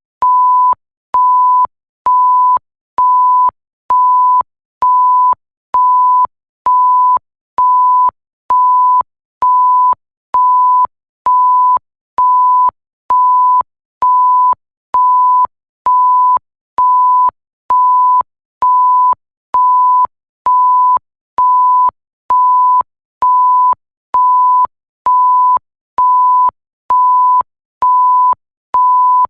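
Censor-style bleep: a pure tone of about 1 kHz sounding in short beeps roughly once a second, each a little over half a second long with brief gaps between, and a faint click as each one starts and stops.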